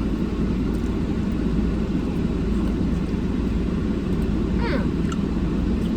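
Steady low rumble, like a running vehicle engine or wind on the microphone, with a short voiced sound about three-quarters of the way through.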